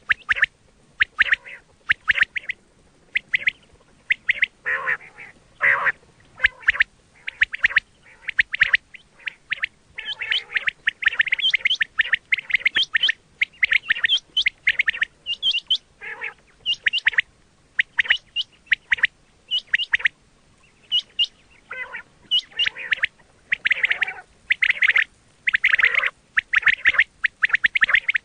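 Quails calling: bursts of short, high chirping notes repeated again and again with brief gaps between them.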